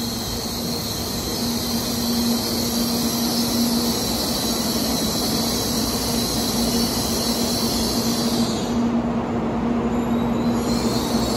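Tokaido Shinkansen train moving along the platform: a steady rumble of running gear with a constant low hum, and a high whine that stops about eight and a half seconds in.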